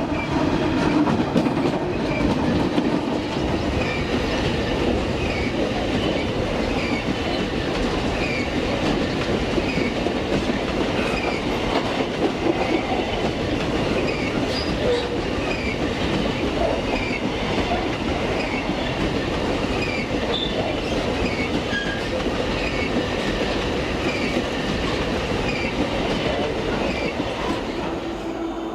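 Freight train wagons rolling past, a steady rumble of steel wheels on the rails with a clickety-clack over the rail joints.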